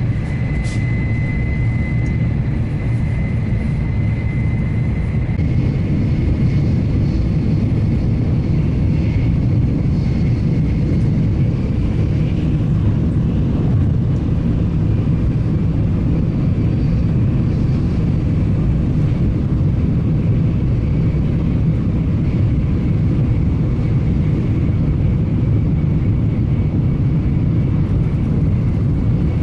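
Electric train on the Iida Line running along the track: a steady, loud low rumble of wheels on rails, with a thin high whine strongest in the first couple of seconds.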